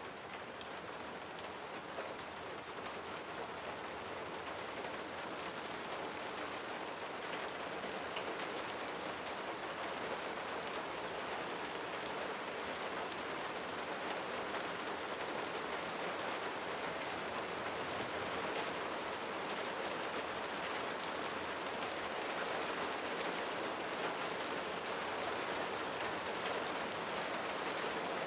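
Steady rain falling on leaves, a dense, even patter of many small drops that grows slightly louder over the first several seconds.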